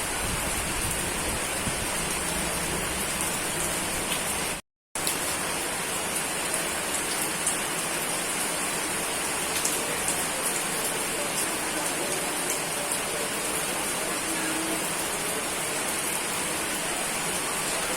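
Steady heavy rain falling, a dense even hiss with fine drop patter on top. About four and a half seconds in the sound cuts out completely for a split second, then resumes.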